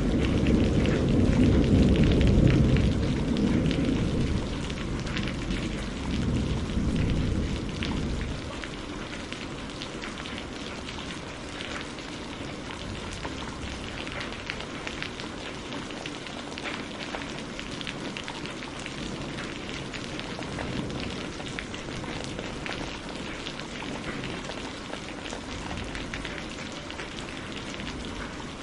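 Steady rain falling, with a low rumble of thunder that dies away about eight seconds in. Crackling firewood snaps throughout.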